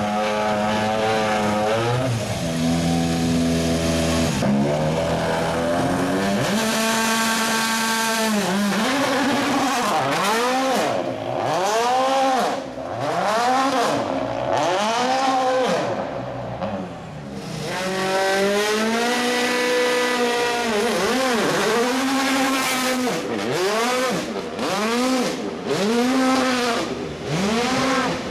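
World Rally Car's 1.6-litre turbocharged four-cylinder engine under hard driving on a rally stage. It first holds steady revs with a couple of step changes, then from about six seconds in the revs rise and fall quickly, about once a second, through gear changes and lifts.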